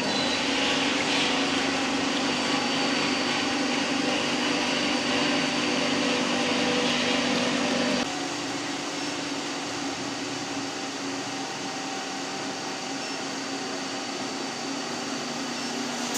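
Spice pulverizer milling machine running steadily, with a whirring grinder noise and a low hum. The hum cuts off about halfway through, leaving a quieter steady running.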